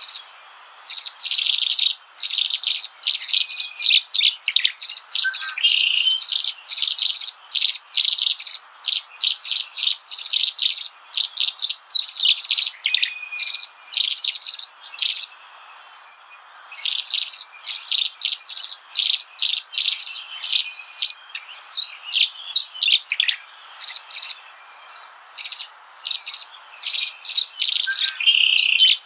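Small birds chirping in quick runs of short, high chirps, with brief pauses between runs, over a faint steady hiss.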